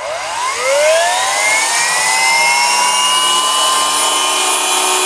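Electric concrete circular saw switched on and spinning up, its motor whine rising in pitch over the first two seconds, then running loud and steady at full speed without cutting.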